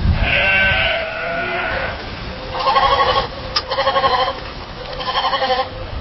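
Sheep bleating, about four wavering calls in a row, with a low rumble underneath.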